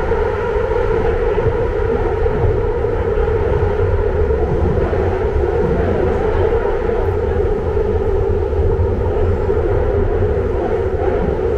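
BART train heard from inside the car while running between stations: a loud, steady rumble of wheels on rail with a continuous drone.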